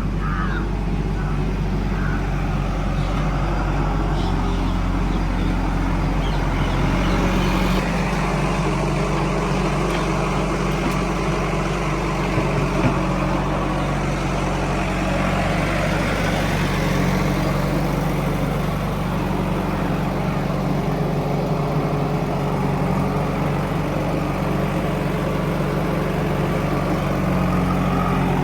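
Heavy diesel engine of a tractor or backhoe loader running steadily, its note shifting a little about eight seconds in and again near the end.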